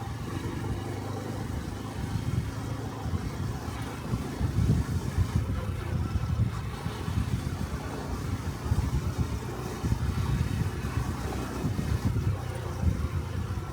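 Exhaust and engine of a Honda Cub 125 cc air-cooled single-cylinder motorcycle running on the road, the low note swelling and easing unevenly.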